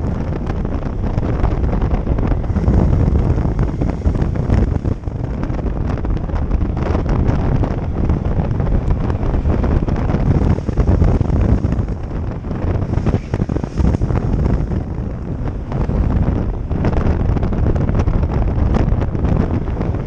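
Heavy wind buffeting the camera microphone on a moving motorcycle, a dense low rush that swells and dips unevenly.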